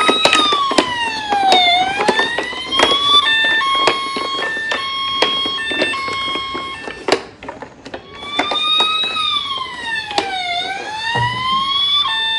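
Electronic siren of a toy emergency vehicle: a wail that dips down and back up, switching to a quick hi-lo two-tone, then the wail and two-tone again. Frequent sharp clicks and knocks sound over it.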